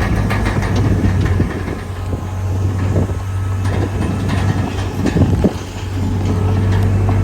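Komatsu D31PX bulldozer's diesel engine running steadily under work, with a few knocks and clanks about three to five seconds in.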